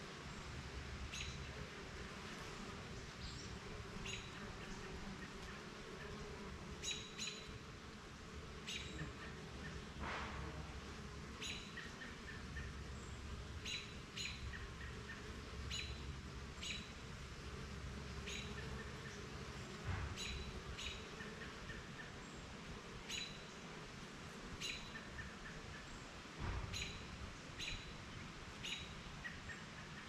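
A bird chirping, short high chirps repeated every second or two, with a second bird's quick run of lower notes now and then. Under it is a low steady hum of honeybees flying around the hive, and there are a few faint knocks.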